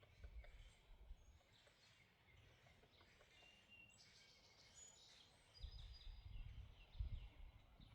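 Faint outdoor birdsong: several small birds chirping and whistling in short high notes, with a low rumble rising in the last two seconds.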